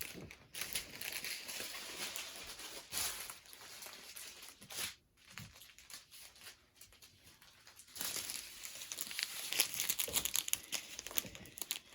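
Small plastic packets of diamond painting drills crinkling as they are handled and sorted. The crinkling is busy at first, thins out and quietens in the middle, and picks up again for the last few seconds.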